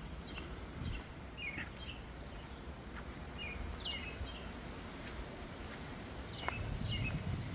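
A bird chirping in short sharp notes, coming in small groups of two or three every second or so, over a low outdoor background rumble.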